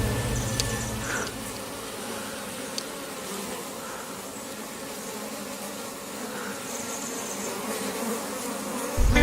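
Many honey bees buzzing steadily around their hives.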